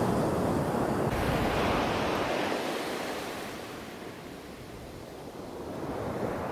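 Ocean surf breaking and washing up a beach, easing off about halfway through and building again near the end, with some wind on the microphone.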